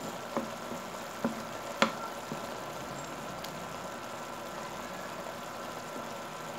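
Chicken adobo sizzling in its sauce in a nonstick wok, with a few sharp knocks of a wooden spoon against the pan in the first couple of seconds as it is stirred.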